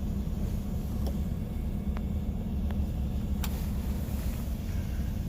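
Truck engine idling with a steady low rumble, with a few faint short clicks in the middle.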